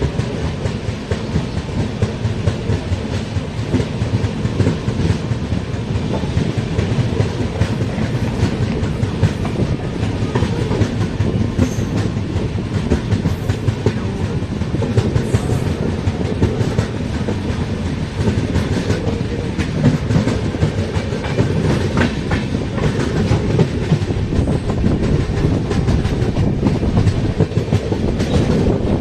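Train running along the rails close by, wheels clicking repeatedly over the rail joints in a steady, loud rumble.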